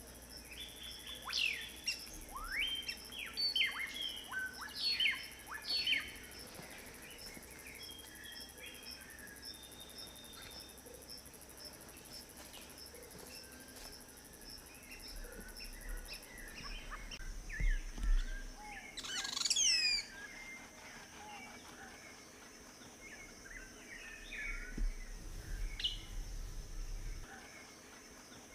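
Wild birds calling: a run of short, sharp chirps in the first several seconds, a single steep falling call about two-thirds of the way in, and scattered chirps near the end, over a steady high insect trill.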